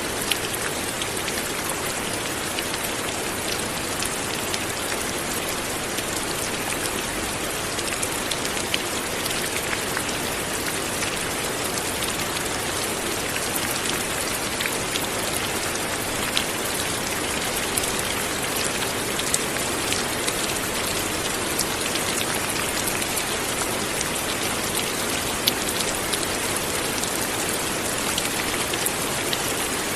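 Steady light rain falling, with a continuous hiss and scattered individual drops ticking on a surface.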